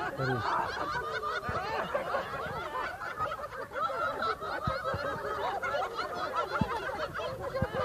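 A group of people laughing together in the laughter-yoga 'chicken laughter' exercise, many voices overlapping as they mimic hens clucking.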